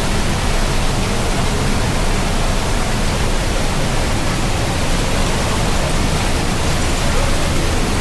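Steady rush of a canyon waterfall close by: falling water pouring in a constant, even roar with no let-up.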